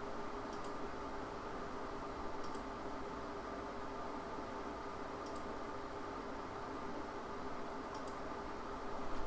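Computer mouse clicking four times, a few seconds apart, each click a quick press-and-release tick, over a steady faint background hum.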